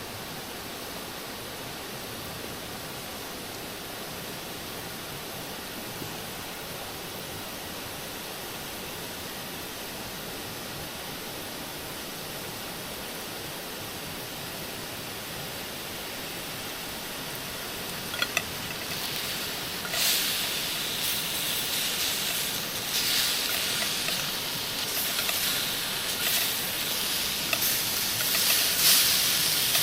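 A steady hiss, then a couple of clicks about eighteen seconds in, and from there a louder, uneven sizzle: food frying in a hot pan over a campfire.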